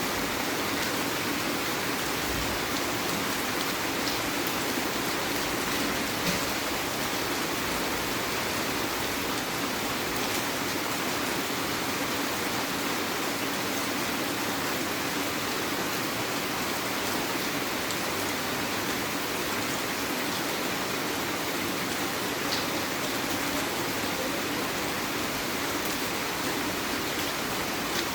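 Heavy rain falling steadily, a dense even hiss, with a few faint drip or tap clicks; one slightly louder tap about six seconds in.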